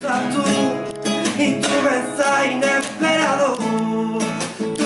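Acoustic guitar strummed live, with a man's voice singing over it.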